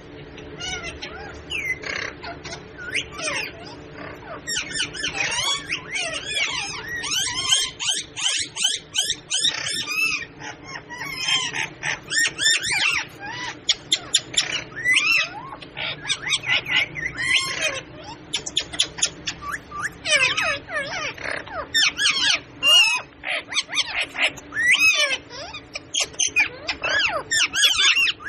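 Pet parrots chattering and squawking in quick, sliding calls that come thick and fast for most of the stretch, over a steady low hum.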